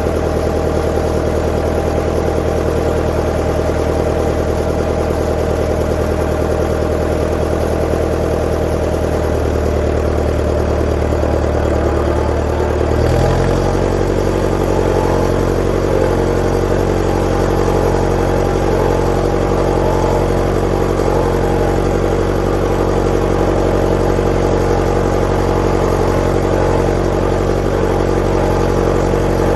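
1959 Fordson Power Major tractor's four-cylinder diesel engine running steadily. About thirteen seconds in, its engine speed changes abruptly, then it holds steady at the new speed.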